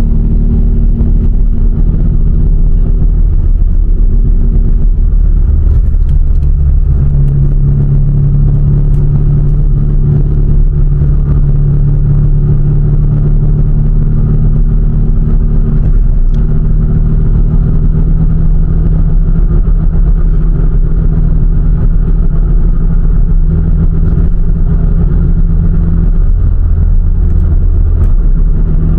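A car engine running with a steady, loud low drone, its pitch stepping slightly a few times.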